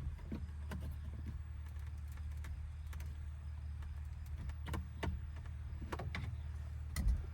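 Scattered light clicks and taps of hands working at the plastic dash trim around a pickup's instrument cluster, over a steady low hum. A heavier knock comes about seven seconds in.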